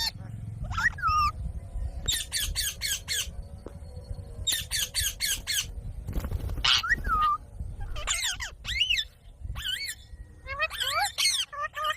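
A green pet parrot calling in short clusters of quick, high, harsh squawks, several times over, with gaps between the bursts.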